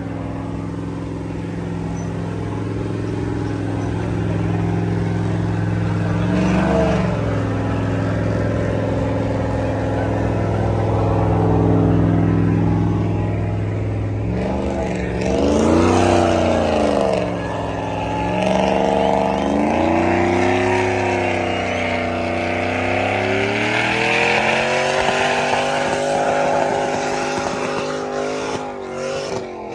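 Truck engine running hard at high revs, its pitch rising and falling several times in the second half as it is revved repeatedly.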